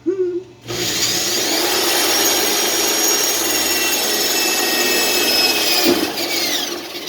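Electric drill starting up, running steadily at full speed with a high whine for about five seconds, then spinning down as the trigger is let go.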